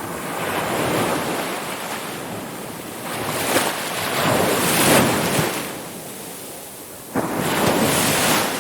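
Ocean waves breaking and washing up the shore in slow swells. The loudest wash comes about five seconds in, and another wave breaks with a sudden crash about seven seconds in.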